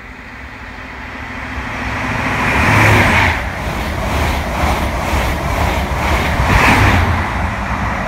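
Passenger train passing a station platform at speed: a rushing rumble that builds as it approaches, then a regular clatter of wheels for a few seconds as the coaches go by, easing off near the end.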